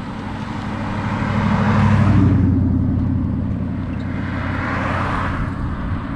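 Motor vehicles running past, an engine hum with tyre noise that swells louder about two seconds in and again near five seconds.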